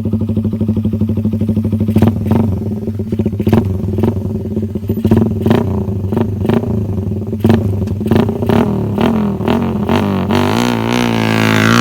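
Suzuki Raider 150 single-cylinder engine running through an open Daengsai4 exhaust, steady with frequent sharp cracks. Near the end the engine pitch swings up and down as the throttle is worked.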